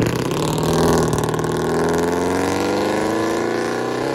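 Lexus GS400's 1UZ V8 under hard acceleration as the car pulls away, the engine note climbing steadily in pitch.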